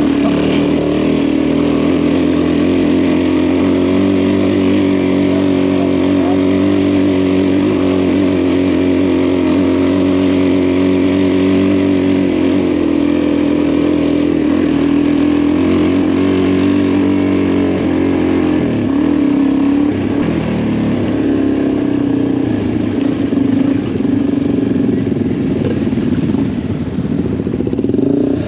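Adventure motorcycle engine running at a steady note on a dirt-track descent. About two-thirds of the way through, the note changes and becomes uneven.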